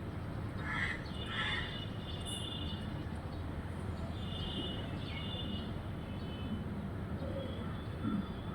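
Birds chirping, with two louder short calls about a second in, over a steady low background hum.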